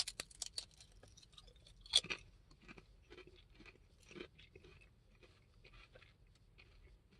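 Close-up crunching and chewing of a kettle-style potato chip: a burst of crisp crackles as it is bitten, a louder crunch about two seconds in, then fainter irregular chewing crunches that thin out.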